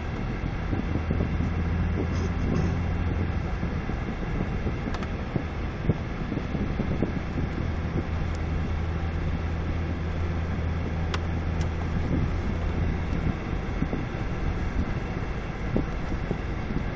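Vehicle engine running with a steady low hum under road and tyre noise while driving on snowy roads; the hum fades about thirteen seconds in.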